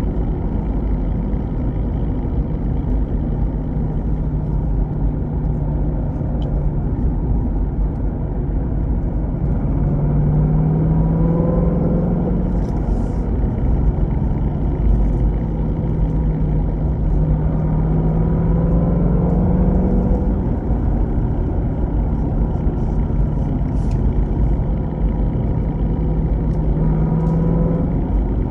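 Car running with steady low rumble, its engine note rising three times as it pulls. This is a vehicle with a transmission that rattles when shifting between 3rd and 4th gear.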